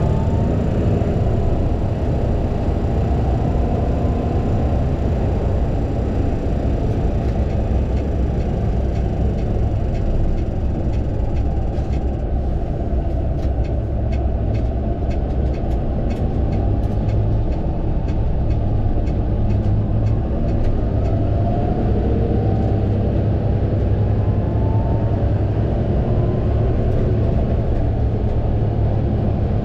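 Fendt 936 Vario tractor's engine running steadily, with faint whines sliding up and down over the rumble. A run of light ticks or rattles comes in about halfway through.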